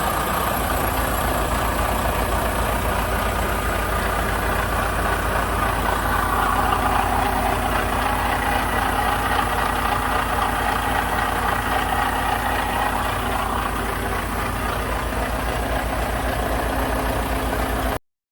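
Truck engine idling steadily, with an even low pulsing, then cutting off suddenly near the end.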